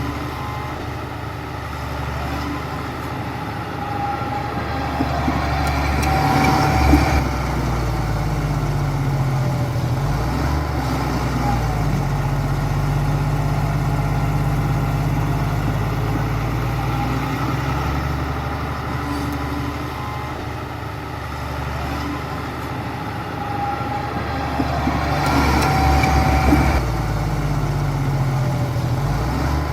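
Heavy diesel engine of a working bulldozer running steadily, its note rising and changing twice as the machine takes on load, once about six seconds in and again near the end.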